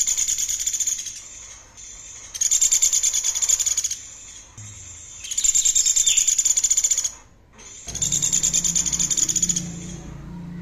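A songbird giving a fast, high, buzzy trill, repeated four times in bursts of about a second and a half with short pauses between.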